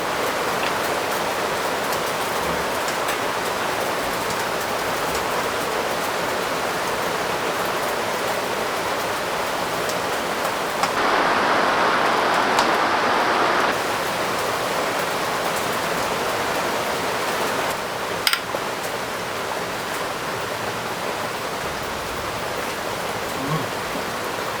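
Heavy rain falling steadily. About eleven seconds in, a louder, duller rush lasts about three seconds, and a single sharp knock comes a little later.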